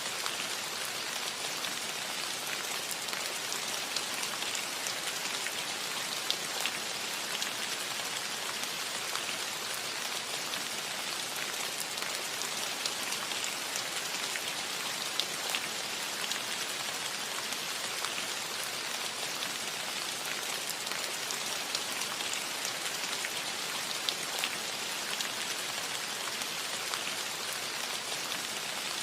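Steady rain falling on a cottage roof: an even hiss with scattered individual drop ticks, unchanging throughout.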